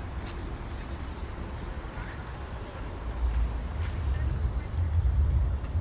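Outdoor city ambience made up mostly of a low rumble, which grows louder about halfway through.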